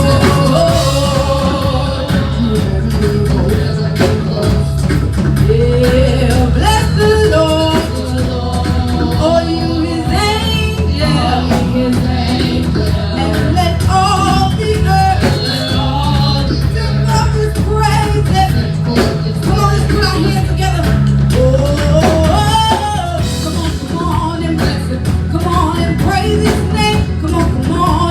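Church worship music: singing over a band with steady bass and drums.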